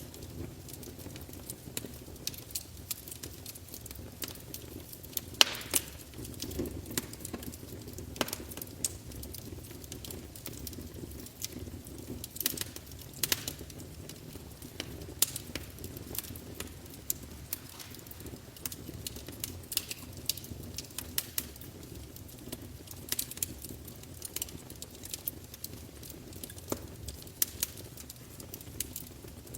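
Wood fire burning in a fireplace: a steady low rumble with sharp, irregular crackles and pops of burning logs, a few louder pops about five and a half seconds in and around twelve to thirteen seconds in.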